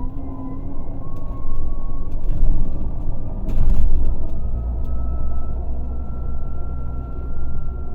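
Scania K400 bus's six-cylinder diesel engine running with a deep, steady rumble and a thin whine that rises slowly in pitch, while a brief hiss cuts in about three and a half seconds in.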